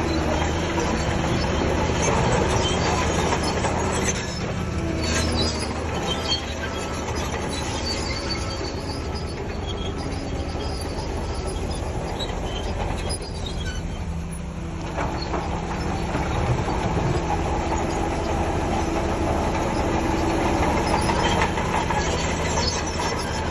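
Shantui DH17C3 crawler bulldozer working: a steady diesel engine drone with the clatter and squeal of its steel tracks. The sound eases briefly a little past the middle, then builds again.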